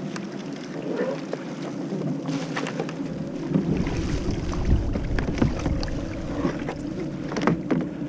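Knocks and water sounds around a fishing kayak, with wind rumbling on the microphone from about three and a half seconds in.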